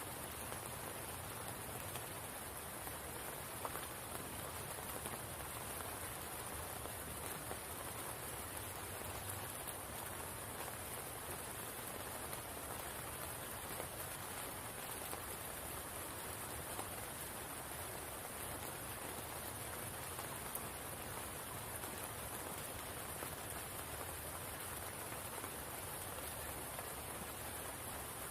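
Steady rain falling on a spring pool, an even patter of drops with a constant high hiss.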